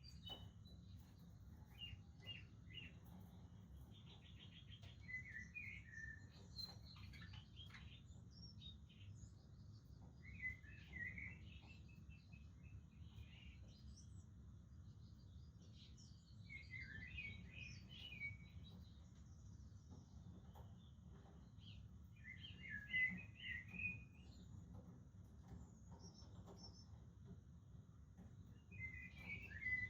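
Budgerigars chirping faintly in short twittering bursts every few seconds, over a steady low background rumble.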